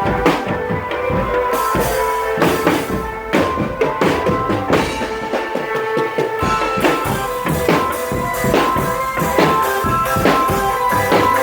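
A marching drum band playing: repeated drum strokes under a melody of held notes.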